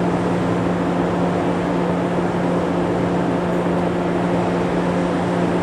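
Parked 115-series electric train humming steadily as its onboard equipment runs while it stands, a constant tone over an even rushing noise.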